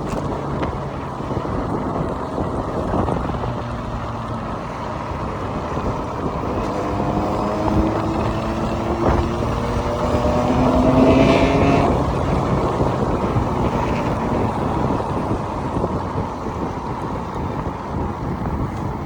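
Steady rush of wind on the microphone while riding an electric scooter at speed. Midway, a motor vehicle's engine climbs steadily in pitch for about five seconds as it accelerates.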